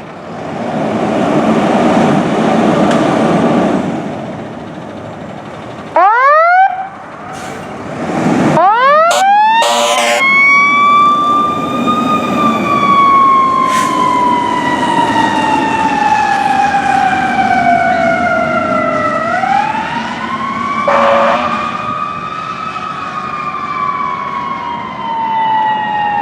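Fire engine responding under emergency lights and siren. A loud vehicle rumble comes first, then a quick burst of rising siren sweeps. After that the siren climbs and slowly falls in pitch twice, and short horn blasts sound twice.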